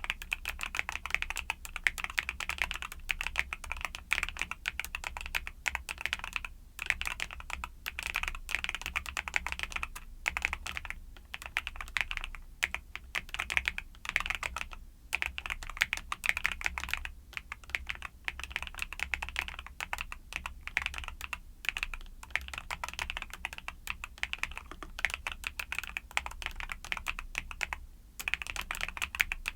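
Steady, fast typing on a mechanical keyboard with YUNZII Cocoa Cream switches, a dense run of key clicks with a few brief pauses.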